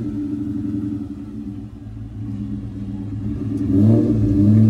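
A car engine with a loud exhaust running at low revs in a steady rumble, picking up with a short rev about four seconds in.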